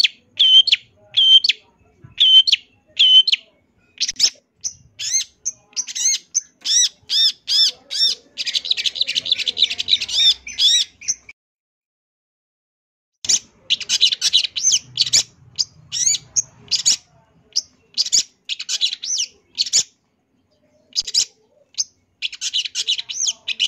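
Long-tailed shrike (cendet) singing a loud, varied song full of mimicked phrases: runs of sharp repeated notes and dense scratchy chatter, with a pause of about two seconds near the middle before it picks up again.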